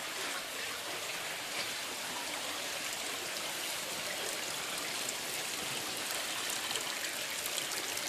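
Water from a pond's rock waterfalls splashing and trickling steadily, with a few sharper splashes near the end.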